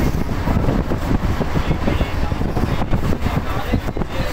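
Indian Railways passenger train running at speed, heard from inside the coach: a loud, steady rumble with a dense rattle of wheels and carriage.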